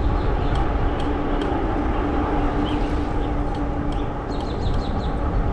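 Wind rushing over the microphone and tyre noise from a fat-tire electric bike riding along a trail, with a steady hum under it. Birds chirp briefly and repeatedly through it.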